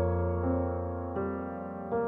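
Background piano music: slow, sustained notes and chords fading away, with a new note struck roughly every half second to second.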